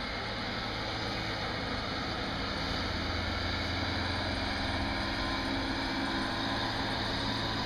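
A motor vehicle's engine running steadily under a broad rushing noise, slowly getting a little louder.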